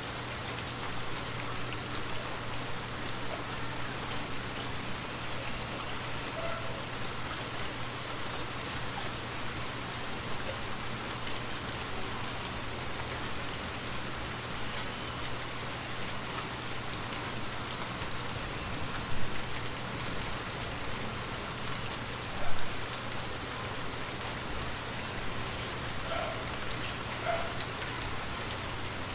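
Steady rain falling, an even hiss of drops on surfaces, with two brief louder thumps about two-thirds of the way through.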